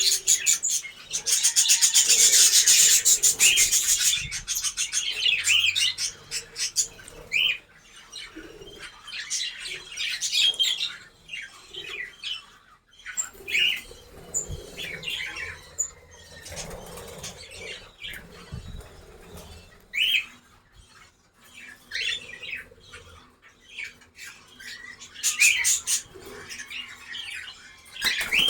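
Small pet parrots in an aviary chirping and squawking in many short separate calls, with a loud flurry of flapping wings in the first few seconds.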